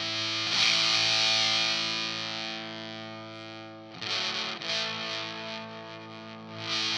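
Electric guitar played through a Sola Sound White Spirit, a Mk IV Tone Bender-style fuzz pedal: heavily fuzzed chords struck about half a second in and again near four seconds, each left to ring out and fade.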